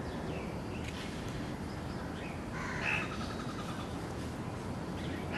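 A bird calling outdoors, once about three seconds in and briefly again near the end, over a steady background hiss.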